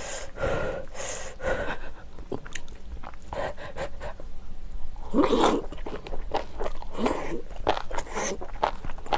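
Close-miked eating: chewing and crunching a mouthful of crisp napa-cabbage kimchi, with wet mouth noises. A louder wet burst comes about five seconds in and another about two seconds later, followed by quick crisp crunches.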